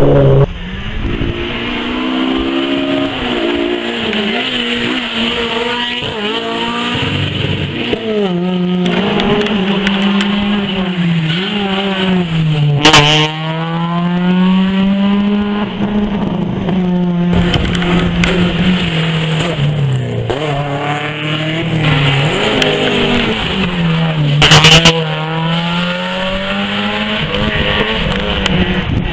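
Rally car engine revving hard and dropping back again and again as the car is driven flat out along the stage. It is loudest twice, about halfway through and near the end, as the car passes close.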